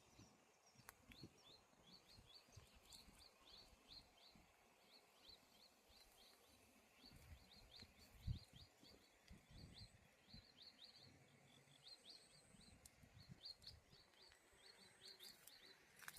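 Faint outdoor ambience with a bird giving a long, rapid series of short, high, downward-slurred chirps, several a second, with brief pauses. Soft low thuds and wind rumble sit underneath.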